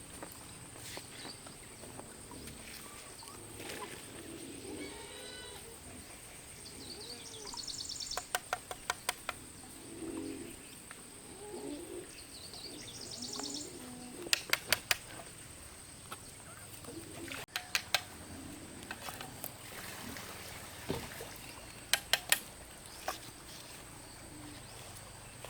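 Birds chirping outdoors over a steady high whine, broken four times by quick runs of three to five sharp knocks, the loudest sounds.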